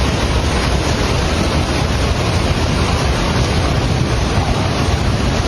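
Floodwater in a swollen river rushing past: a loud, steady rush with a deep low rumble and no break.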